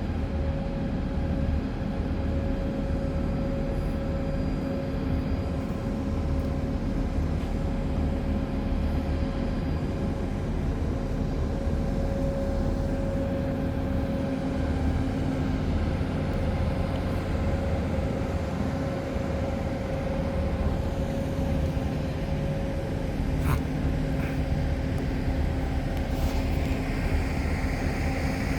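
Steady mechanical hum with a low rumble and a few held tones, unchanging throughout.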